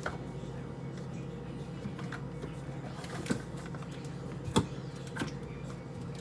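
Scattered clicks and knocks of items being handled, the loudest about four and a half seconds in, over a steady low hum.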